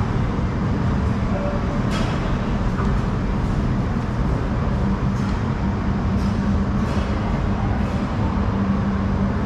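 Montserrat rack railway train running: a steady rumble with a low hum and a few faint clicks.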